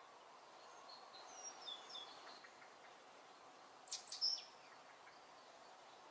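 Faint bird chirps over a steady hiss, with a few louder, sharper chirps about four seconds in.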